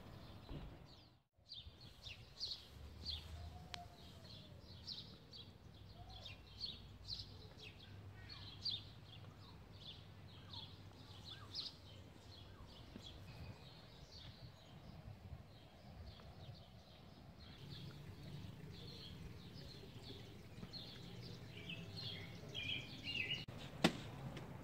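Birds chirping and singing, many short high notes, faint over a low steady outdoor rumble. A single sharp click comes near the end.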